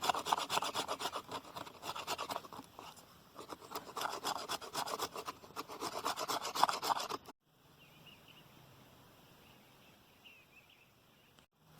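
A blade scraping fine shavings off a stick of fatwood in rapid, rough strokes. The scraping stops abruptly about seven seconds in, leaving only a faint low hum.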